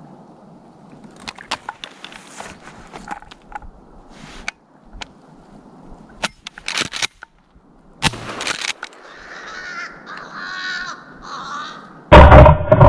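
Crows cawing: a string of short harsh calls, then longer rough caws. Near the end a sudden, very loud burst of noise cuts in.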